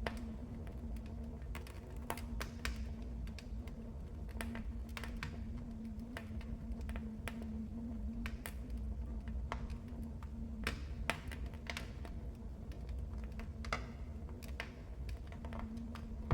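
Wood fire in a fireplace crackling: irregular sharp pops and snaps, some louder than others, over a steady low background.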